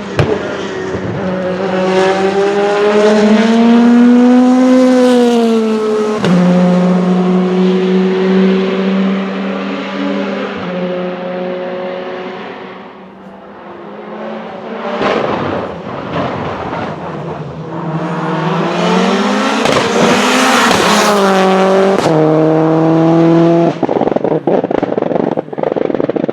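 Race car engine at high revs, its note climbing and then dropping sharply at gear changes about six and ten seconds in. It fades, then surges loud again with sharp pops. It ends in a run of crackles near the end.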